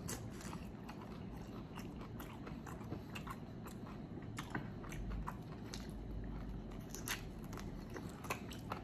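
Chewing and biting on a chicken wing as the meat is stripped off the bone, with scattered soft clicks and mouth sounds.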